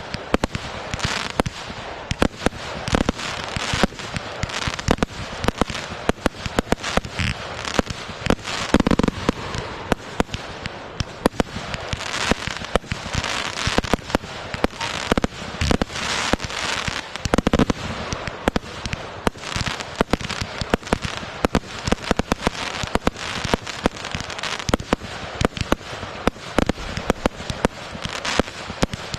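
Consumer fireworks going off in a dense, unbroken crackle of rapid sharp pops, with a few deeper bangs standing out about a third of the way in and again past halfway.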